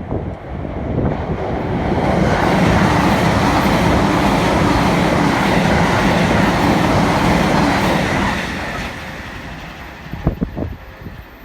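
Train passing: its noise builds over about two seconds, stays loud for about six, then fades away. A few short gusts of wind hit the microphone near the end.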